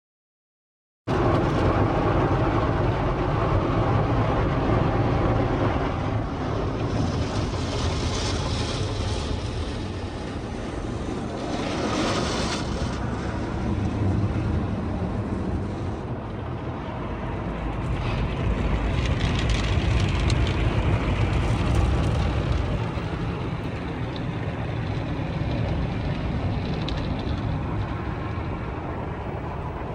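Steady car rumble with hiss that rises and falls, cutting in about a second in.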